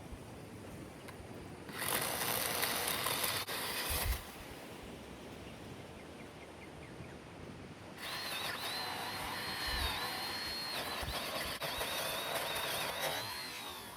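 Battery-powered pole saw cutting into a tree: a short run about two seconds in, then a longer run from about eight seconds with a high motor whine that wavers and dips as the chain bites, winding down near the end.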